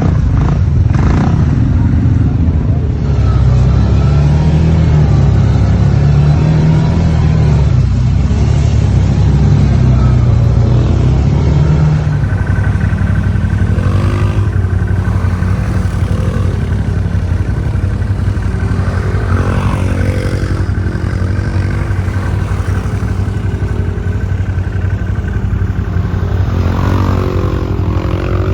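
Quad bike (ATV) engines running while riding, the revs rising and falling. About twelve seconds in the sound changes abruptly to a steadier engine note.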